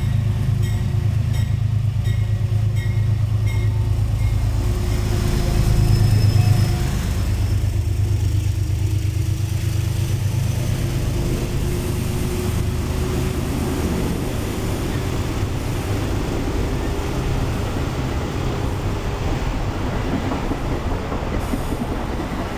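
A Metro-North GE P32AC-DM Genesis diesel locomotive pulling a passenger train past, its engine drone loudest about six seconds in. Then the coaches roll by with steady wheel-on-rail rumble and a thin, slowly rising wheel squeal.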